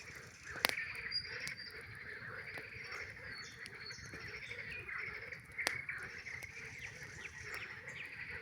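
A chorus of many frogs calling together without pause, with a campfire crackling; two sharp pops stand out, one just after the start and one at about six seconds.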